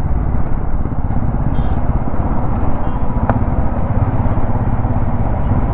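Royal Enfield Himalayan 411's single-cylinder engine running steadily under way on the highway, a constant low drone with even firing pulses.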